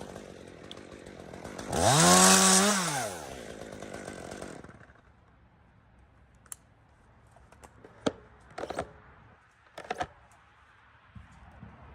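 Gas chainsaw idling, revved up once briefly about two seconds in, then falling back to idle and cutting off about five seconds in. A few faint short knocks and clicks follow.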